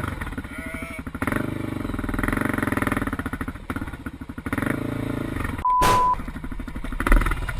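A small engine or motor running with a rapid, even pulse, getting louder about a second in. Late on, a short steady beep cuts in.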